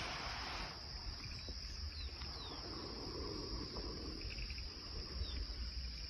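Insects chirring in one steady, high, continuous drone, with a few short falling whistles and brief pulsed trills over it. A rush of wind noise dies away in the first second.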